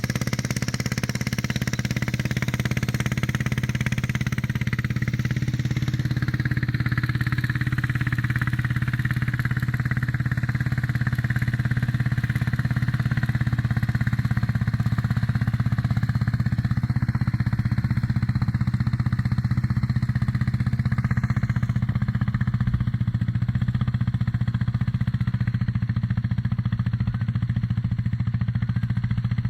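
Small engine of a homemade mini tractor running steadily with a fast, even putter as the tractor pulls a harrow.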